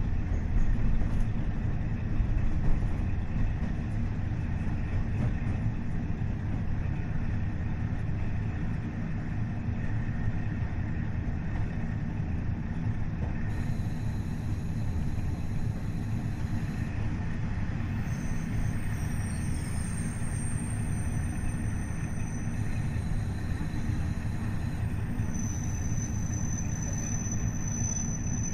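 Running sound of a KiHa 40 diesel railcar with its DMF15HSA diesel engine: a steady low rumble of engine and wheels on the rails, with a few knocks in the first seconds. Thin high-pitched wheel squeals come and go in the second half.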